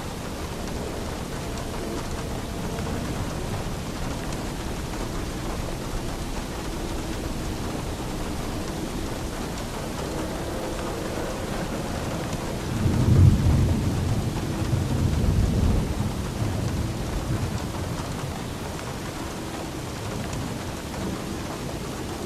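Steady rain with a roll of thunder rumbling deep, swelling suddenly about halfway through and dying away over several seconds.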